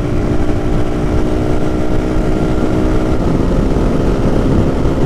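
Lifan KP motorcycle's small single-cylinder engine running hard at steady high revs under way, over a low wind rumble on the microphone. About three seconds in, the engine note shifts and loses its steady pitch.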